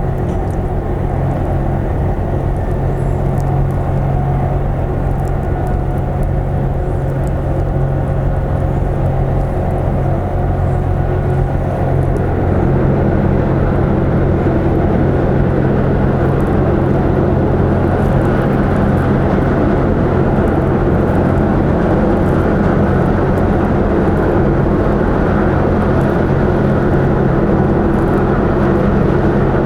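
Car ferry's diesel engines running with a steady low drone, which grows louder about twelve seconds in as the ship manoeuvres in the harbour.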